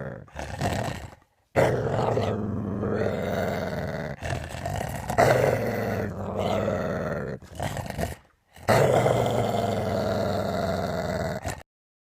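Vocal sound effects of a rabid dog, performed by a voice actor: a series of long, rough growling roars with brief breaks between them, ending suddenly near the end.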